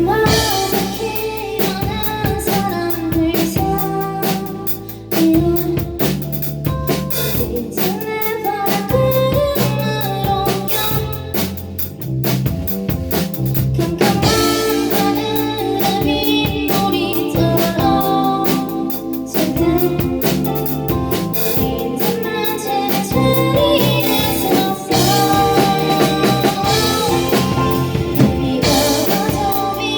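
Live indie pop band playing a song, with drum kit and pitched instruments carrying a melody.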